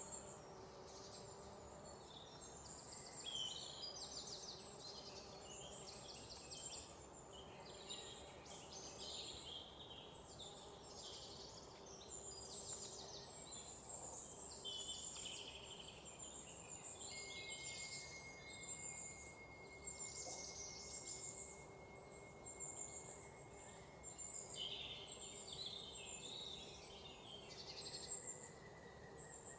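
A chorus of songbirds chirping and trilling over one another, with a faint hiss of ambient noise beneath. Around the middle, one thin steady high tone is held for several seconds.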